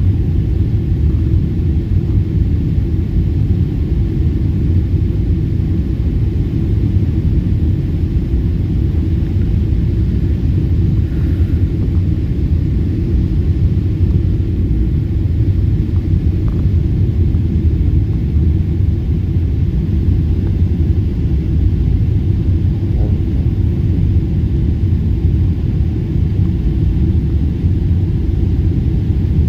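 Steady low rumble of vehicle cabin noise, even and unbroken throughout.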